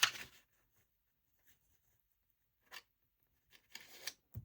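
Paper rustling and being shifted on a tabletop, with a few small handling sounds and a soft knock near the end as something is set down.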